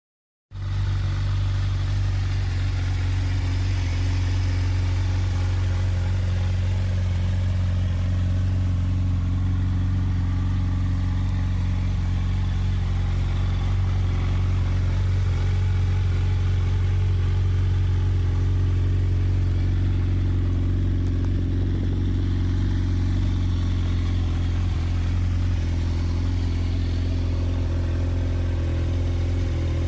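Kawasaki Z1000SX's 1043 cc inline-four engine idling steadily through Akrapovič header pipes and Two Brothers end cans. It starts about half a second in.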